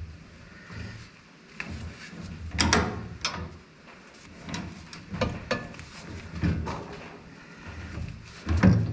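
Irregular metal clanks and knocks of a breaker bar, wrench and socket against the brush cutter's bolt as a large nut is worked on and tightened, some strikes ringing briefly.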